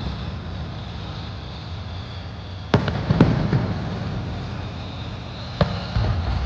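Fireworks bursting: two sharp bangs about half a second apart near the middle and another near the end, each followed by crackling, over a steady low background rumble.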